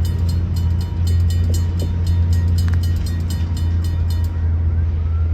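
Freight train passing: a steady, loud low rumble with fast, even clicking of wheels on the rail. The clicking stops about four seconds in while the rumble carries on.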